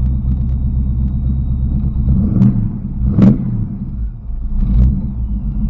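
1986 Ford Mustang's engine idling steadily, with a brief rise and fall in revs about two seconds in. A few sharp clicks or knocks come over it, the loudest about three seconds in.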